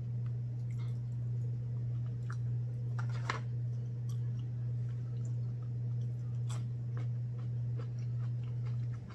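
Close-up chewing and mouth sounds of a person eating, with scattered small clicks and one sharper click about three seconds in, over a steady low hum that cuts off near the end.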